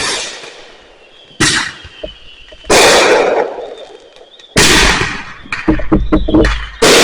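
Fireworks going off: four loud bangs, each fading away over about a second, with a quick run of crackling pops just before the last.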